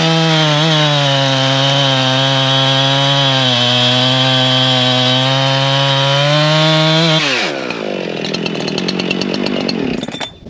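A 70 cc Husqvarna two-stroke chainsaw held at full throttle while cutting through a log, its pitch sagging a little under the load mid-cut. About seven seconds in the throttle is released and the saw drops back to idle.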